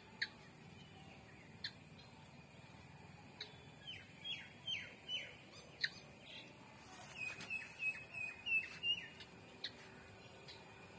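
Birds calling: a few short chirps that sweep downward about halfway through, then a quick run of short chirps near the end, over a steady faint high whine.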